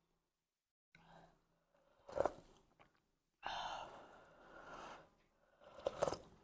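A person chewing and eating bún riêu noodle soup close to the microphone, in several bouts after a silent first second, with sharp clicks about two seconds in and again near the end.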